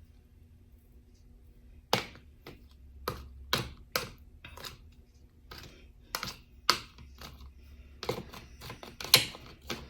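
Peeled garlic cloves clicking and tapping against a glass jar as they are put in: irregular sharp clicks, about one or two a second, starting about two seconds in and coming faster near the end.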